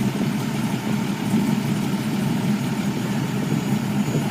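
Kit car engine idling steadily at a constant pitch, with no revving.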